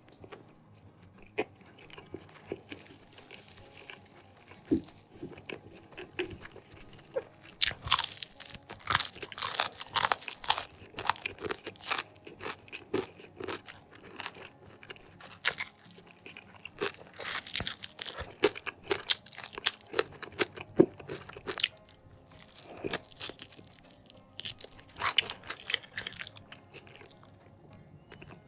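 Close-miked chewing of crispy fried chicken coating with rice, a rapid run of crunches. The crunches are sparse at first, come thick from about eight seconds in, and return in a brief cluster near the end.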